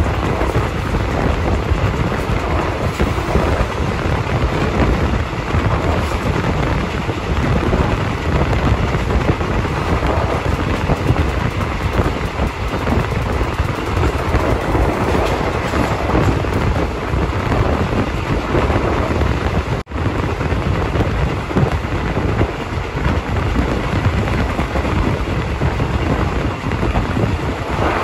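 Steady loud rumble and rush of a moving passenger train, ordinary train 261, heard from on board, with the sound cut briefly about twenty seconds in.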